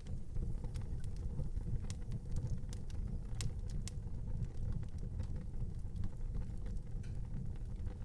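Wood fire burning in a fireplace: a steady low rumble of the flames with scattered sharp crackles and pops, most of them in the middle.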